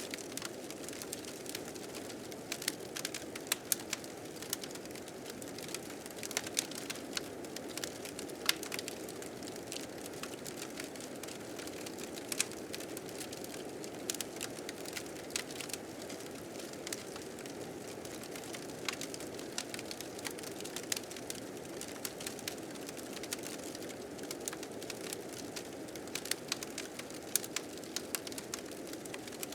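Wood fire crackling, with frequent sharp pops and snaps, over the steady low rush of blizzard wind.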